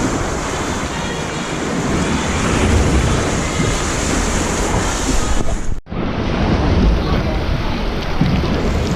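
A steady rush of lake water sloshing against the rocks and the kayak, with wind buffeting the microphone. The sound cuts out for a moment just before six seconds in, then carries on.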